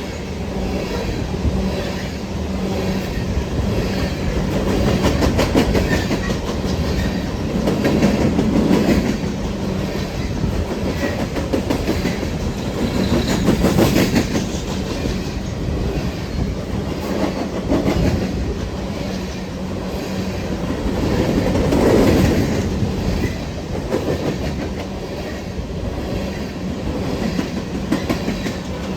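Empty coal train cars rolling past, their wheels clicking over the rail joints with a steady low hum. The sound swells and eases several times as the cars go by.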